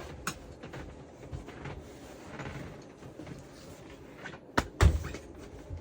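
Scattered light clicks and rustling, then two sharp knocks in quick succession near the end.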